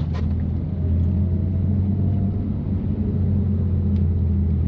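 A 2018 BMW M3 Competition's twin-turbo straight-six, with catless downpipes and an always-open valved exhaust, runs at a steady low drone while cruising on a snowy road, with road rumble underneath. A faint tone rises slowly in the first couple of seconds.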